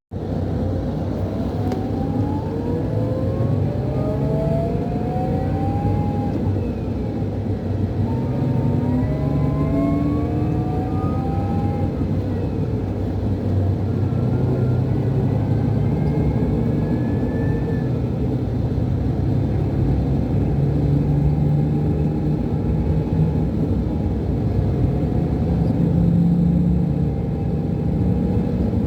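Scania DC13 inline-six diesel of a Scania K440 IB coach heard from inside the cabin, pulling up through the gears of its Opticruise automated gearbox: a rising whistle and whine climbs three times, each climb cut off by an upshift. It then settles into steady running with a low hum.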